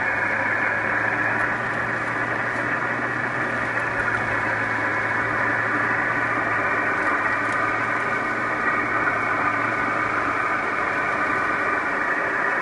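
Steady drone of a car driving: engine hum and road noise heard inside the cabin, even and unbroken.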